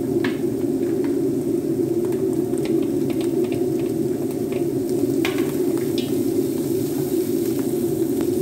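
Onions, garlic, mushrooms and green bell pepper frying in a wok, with light sizzling and the scattered scrapes and taps of a wooden spatula stirring; a sharper scrape about five seconds in. A steady low hum runs underneath and is the loudest part.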